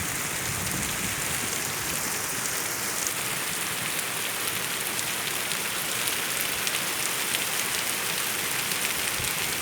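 Steady rain falling, a continuous even hiss with many small drops ticking on surfaces.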